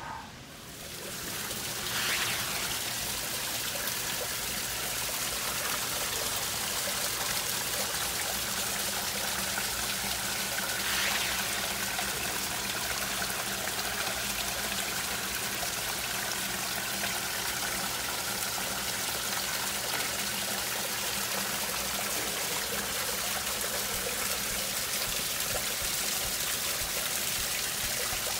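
Steady running water, trickling and splashing.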